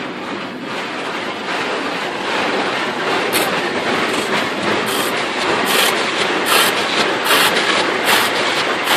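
Automatic car wash heard from inside the car: a steady rush of water spray and scrubbing on the body that grows louder, with a hiss repeating a little more than once a second in the second half.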